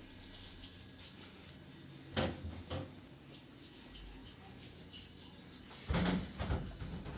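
Two short bursts of knocking and rubbing, like objects being handled, about two seconds in and again near the end, over a faint steady background.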